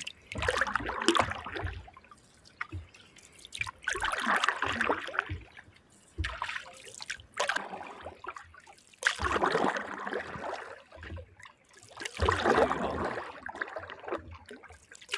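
Canoe paddle strokes: the blade pulls through the water with a swish and trickle, four strokes a few seconds apart, water dripping off the paddle between them.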